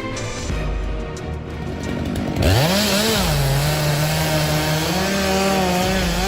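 A chainsaw revs up sharply about two and a half seconds in, then runs at high speed. Its pitch drops for a while, then climbs and holds. Before the rev-up, a quieter mix with music under it.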